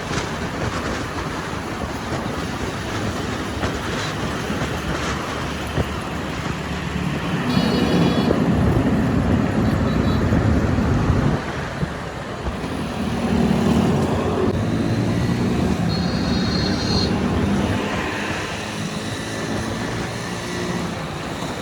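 Loud mechanical machinery noise, a steady din that swells twice, with brief high metallic squeals.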